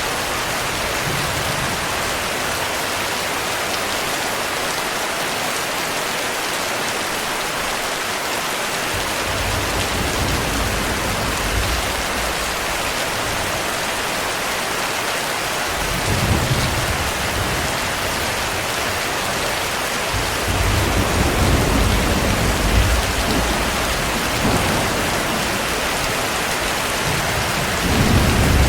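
Steady heavy rain, an even hiss. From about a third of the way in it is joined by several long rolls of low thunder rumbling.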